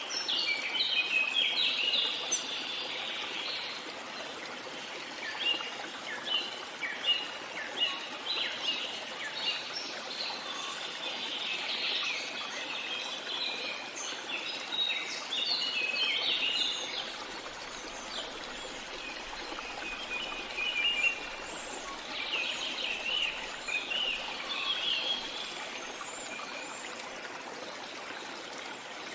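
Birds chirping and singing in short clustered phrases over a steady babbling stream.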